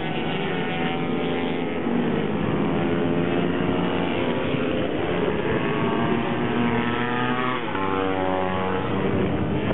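Several racing minibike engines running hard, their pitches overlapping and rising and falling as the bikes accelerate and slow; just before eight seconds in one engine's pitch drops sharply, then climbs again.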